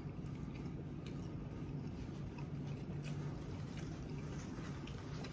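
Quiet, wet chewing of a juice-dipped Italian beef sandwich: soft, scattered mouth clicks and squelches over a steady low hum.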